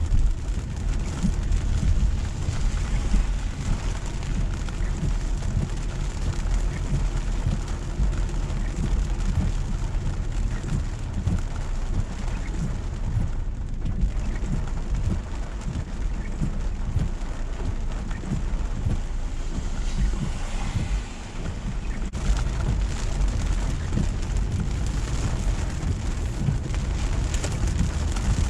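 Steady rain falling on a moving car, with wet-road tyre noise and a continuous low rumble from the car, dipping briefly about two thirds of the way through.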